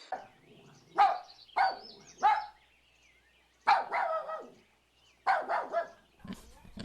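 A dog barking: three short barks in the first few seconds, then two longer barks after a pause.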